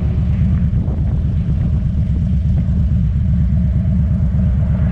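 Motorcycle engine running steadily while riding, a deep rapid pulsing rumble with no change in pace.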